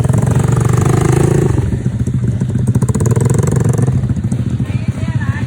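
Motorcycle engine running under way on an off-road trail, its note rising and falling, with rattling in the middle.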